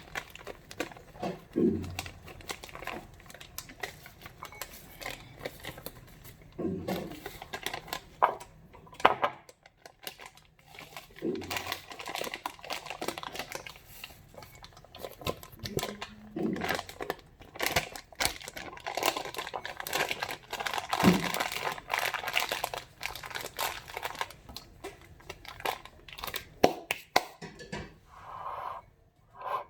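Crinkling and rustling, like something being handled, with many small clicks and a few soft knocks scattered through.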